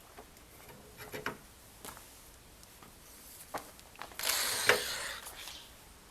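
Workshop tool handling: a few separate clicks and knocks, then, about four seconds in, a noisy scrape lasting about a second and a half with a sharp click in the middle.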